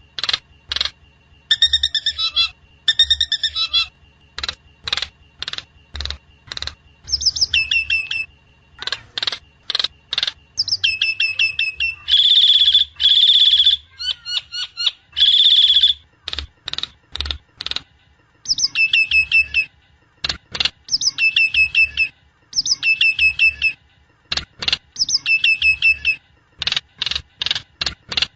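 Nias hill myna (jalak nias) calling: a rapid series of short, sharp high whistled notes, broken by quick trilled phrases and, in the middle, several loud, harsh drawn-out calls.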